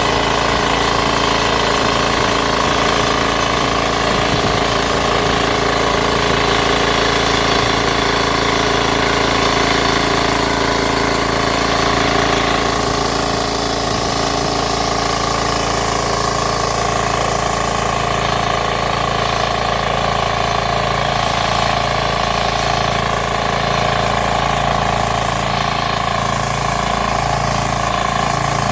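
9 hp diesel engine running steadily at an even speed, easing slightly in its higher tones about halfway through.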